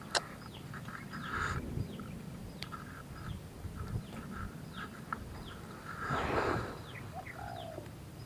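Small birds calling in the background, a steady string of short, high, falling chirps, with a sharp click right at the start and a brief scuffling noise about six seconds in.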